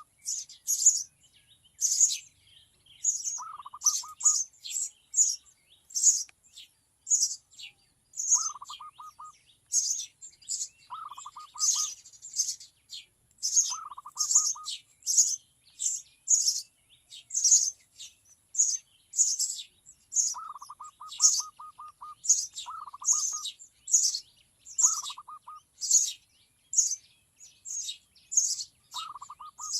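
Young sparrow chirping over and over, short high calls about one and a half a second. Every few seconds a second bird joins in with a quick, lower rattle of five to nine notes.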